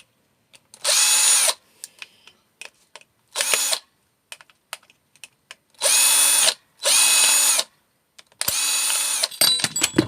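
Cordless drill-driver running in five short bursts, each a pitched whine that spins up and winds down, undoing screws from the microwave's casing. Light clicks of handling come between the bursts.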